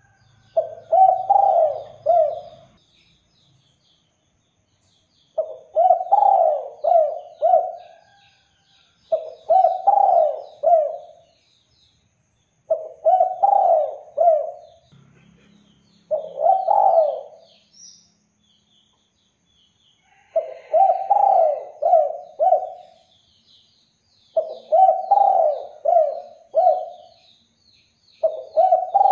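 Spotted dove (derkuku) cooing: a phrase of three or four coos about every four seconds, with one short single coo in the middle. Faint high chirps of small birds run behind it.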